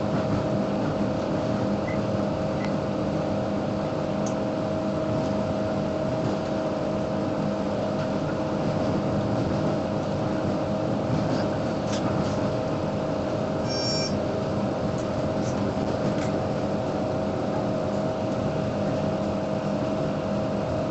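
Suburban passenger train running, heard from inside: a steady drone with a constant hum over rolling rail noise and a few faint clicks. A brief high-pitched tone sounds about fourteen seconds in.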